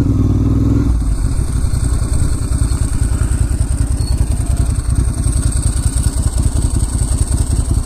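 Ducati Monster S2R 1000's air-cooled L-twin engine running at low revs while riding, with a pulsing beat. The revs drop about a second in.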